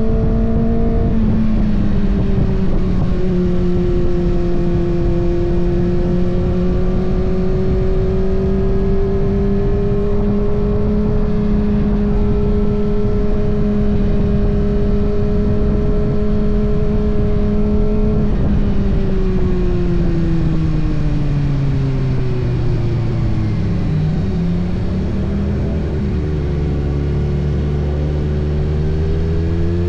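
Kawasaki ZX-6R inline-four engine holding steady revs under way over wind and road noise. About two-thirds of the way through the revs fall for several seconds as the bike slows, then they rise again near the end as it accelerates.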